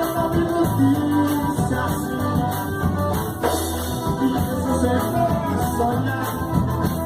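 A live band playing music with a steady beat, with a hint of singing.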